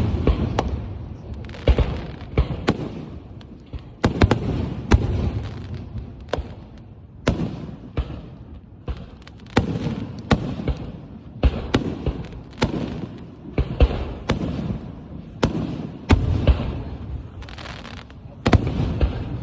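Aerial fireworks bursting in a continuous barrage: a string of sharp bangs, roughly one to two a second, each trailing off before the next.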